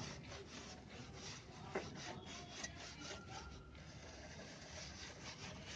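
A cloth rubbing along a diesel-cleaned motorcycle drive chain: faint, uneven scrubbing with a few light clicks.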